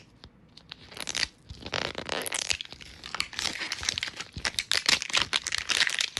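Crinkly plastic wrapping being torn and crumpled off a Mini Brands capsule ball, a dense crackling run that starts about a second in.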